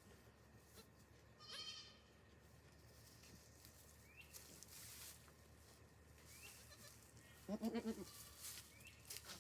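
Goats bleating: a short, high-pitched bleat about a second and a half in, and a louder, lower, wavering bleat near the end.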